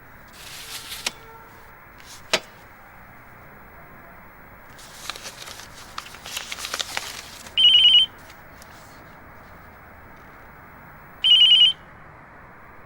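Telephone ringing: two short electronic trills about three and a half seconds apart. Before them come some quieter rustling and a single sharp click.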